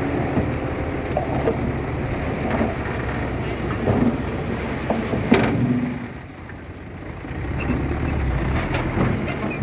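Heavy earthmoving machinery's diesel engine running steadily, with a few sharp metallic clanks; the noise drops for a second or two past the middle, then comes back up.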